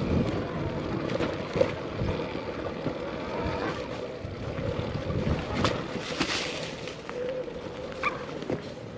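Electric dirt bike being ridden over rough dirt and rocks: a faint motor whine that wavers with the throttle, over tyre and wind noise, with scattered knocks from the bike over the rocks.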